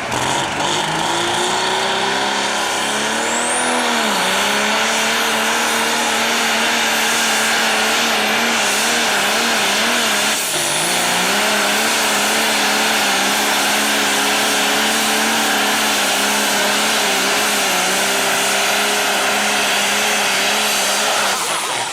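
Hot stock pulling tractor's engine running flat out under load, pulling the sled. Its pitch climbs over the first few seconds, dips briefly about four seconds in and again about ten seconds in, then holds high, with a high whistle over it.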